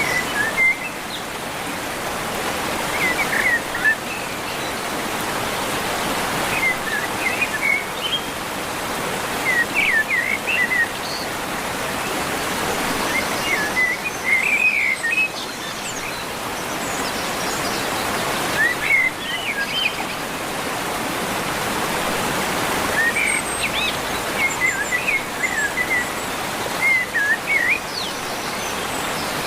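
Birds chirping in short clusters of calls every few seconds over a steady hiss of rain.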